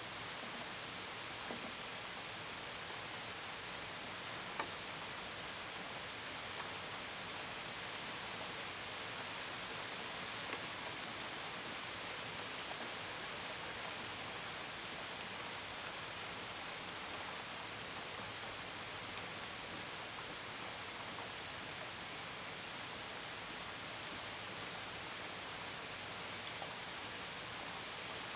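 Steady rain with scattered drops pattering, and crickets chirping faintly in repeated short bursts. One drop strikes louder about four and a half seconds in.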